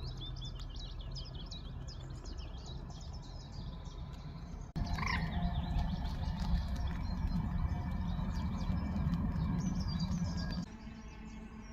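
Small songbirds chirping and singing over a low outdoor rumble. The background changes abruptly and gets louder about five seconds in, then drops again near the end.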